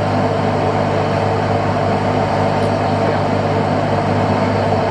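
Fishing boat's engine running steadily with an even, unbroken hum.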